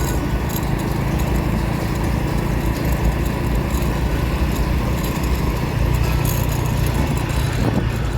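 Motor scooter being ridden along a road: its small engine running steadily under road noise, with wind buffeting the microphone.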